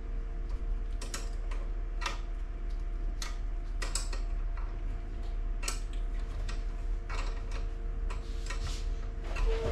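Irregular sharp mechanical clicks and ticks, roughly one a second, over a steady hum.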